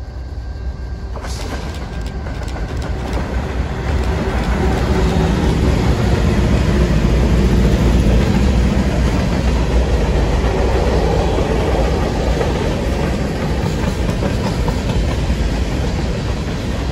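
A train passing close by, its wheels clattering on the rails over a low rumble. The sound swells over the first few seconds and stays loud.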